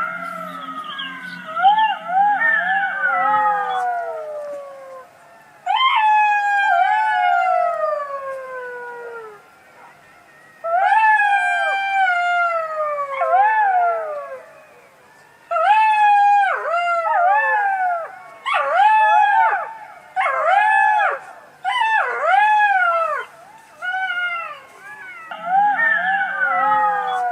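Fox calls: high, wavering howl-like cries that rise and fall in pitch, with long falling wails and runs of short arched yelps, coming in several bouts with brief pauses between.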